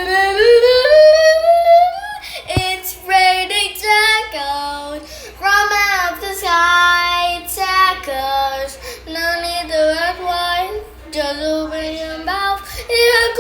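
A child singing alone, holding long notes with short breaks between them; the first note slides upward over about two seconds.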